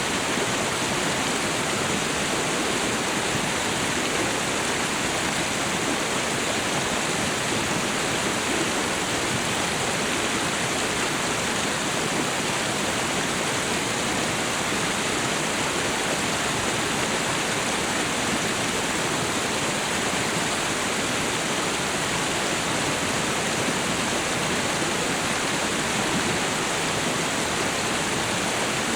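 Waterfall and river water rushing in a steady, unbroken roar of white noise.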